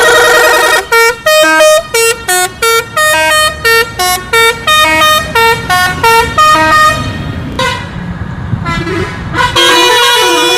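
A musical vehicle horn sounds one long note, then plays a quick tune of short notes at changing pitches. A rushing hiss follows, and near the end a long note starts that wavers up and down in pitch.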